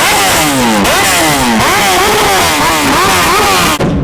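Loud car engine revved again and again in quick blips, its pitch climbing and falling back roughly every half second over a harsh exhaust rasp. The revving breaks off suddenly near the end.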